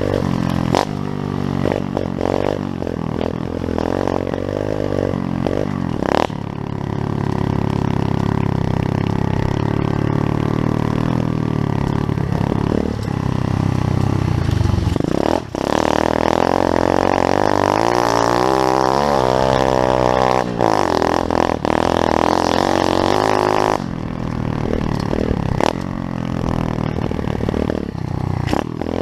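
Pit bike's small single-cylinder engine running, its revs rising and falling, with a spell of higher revving in the middle.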